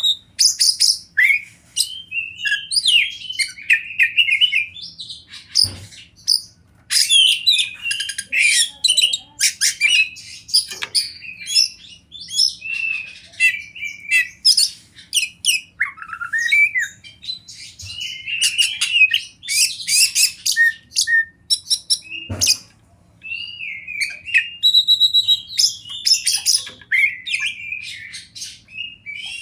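Oriental magpie-robin (kacer) singing a long, varied song of clear whistles, slurred phrases, trills and harsh scratchy chatter, with short pauses between phrases. Two sharp knocks break in partway through.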